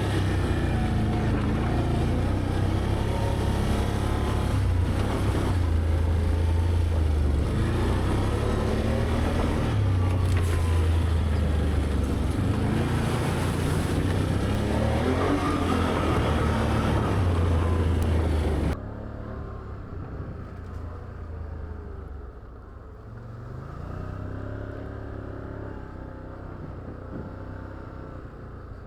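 Can-Am ATV engine running along a trail, its pitch rising and falling with the throttle. After about nineteen seconds it suddenly drops to a quieter, duller engine sound.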